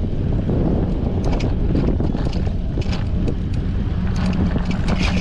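Strong wind buffeting a GoPro's microphone while cycling, a dense low rumble. Scattered light clicks run through it, and a steady low hum comes in about four seconds in.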